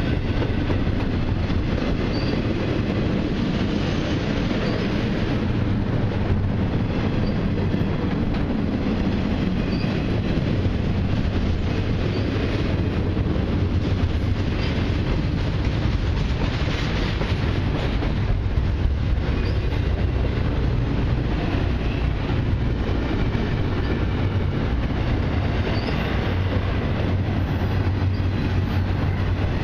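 A long intermodal freight train's cars rolling past at speed: a steady rumble and clatter of steel wheels on the rails, with occasional faint high squeaks.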